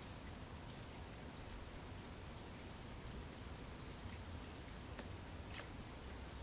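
A small bird calling: a couple of single faint high chirps, then a quick run of about five sharp high notes about five seconds in, over a faint low rumble of forest ambience.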